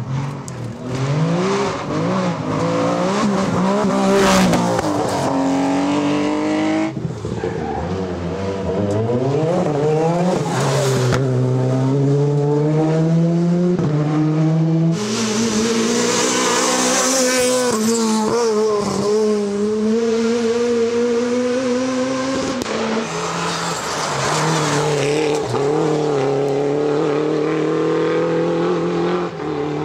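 Rally cars at full attack on a special stage. The engines rev up and drop back again and again through gear changes and braking, with tyre squeal in places. It sounds like several separate passes, one after another.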